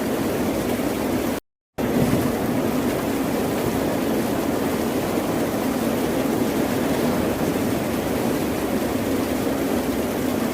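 Steady, unbroken wash of ocean surf, cut to dead silence for a fraction of a second about a second and a half in, as at a splice in the recording.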